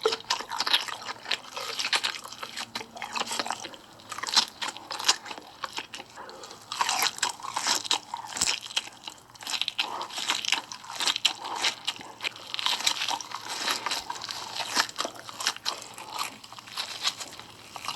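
A person biting and chewing hot Cheetos: a dense, irregular run of crisp crunches with brief lulls.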